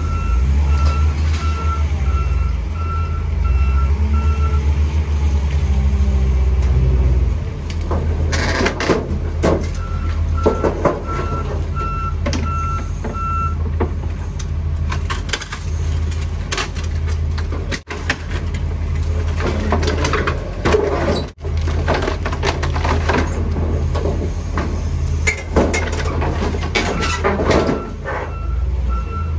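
A heavy machine's engine runs with a steady low rumble while its reversing alarm beeps in three spells. Through the middle come repeated loud metal clanks and crunches, consistent with a junk car being handled and crushed.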